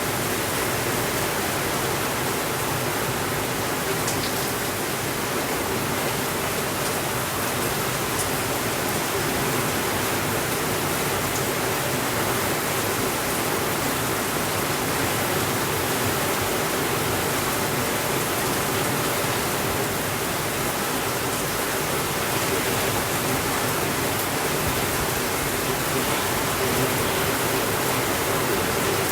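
Steady rainfall, an even hiss that holds at one level throughout, with a couple of faint ticks in the first several seconds.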